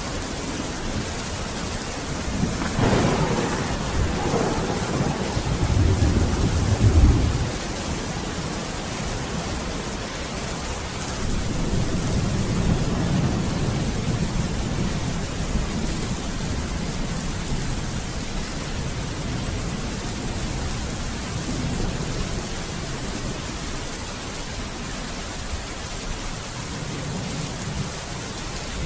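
Steady rain falling in a thunderstorm, with a crack of thunder about three seconds in and deep rolling rumbles that swell and fade twice.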